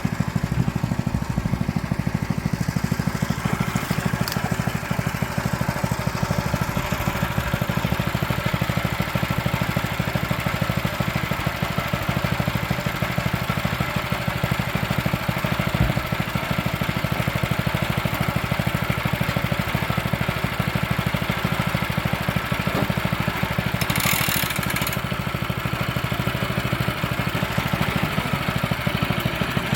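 Small engine running steadily at an even, unchanging speed, with a brief hiss near the end.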